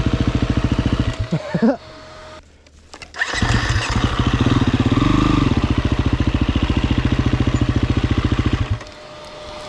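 Dirt bike engine running at a low, even idle. It drops out about a second in, comes back about three seconds in, and runs steadily until it stops near the end.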